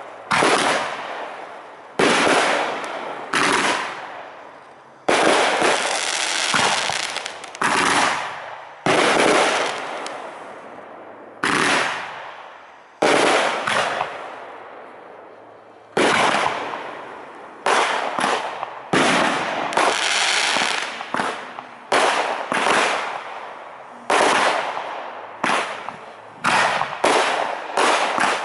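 Aerial firework shells bursting in a display: sharp bangs every second or two, each trailing off over a second or so, coming quicker near the end.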